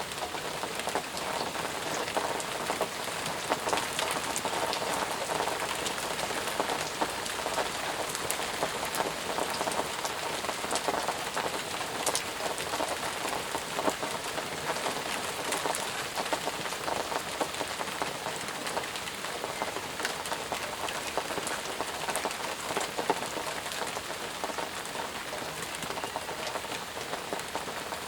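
Steady, intense rainfall: a constant hiss of rain with many individual drop hits heard as short sharp ticks on top.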